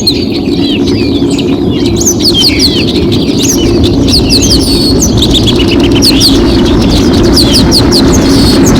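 Songbirds chirping and singing in a dawn chorus, many quick high calls overlapping, over a steady low rumble that grows gradually louder.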